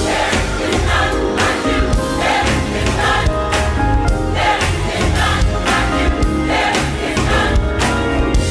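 Gospel choir singing with a full band: drums keep a steady beat under the voices.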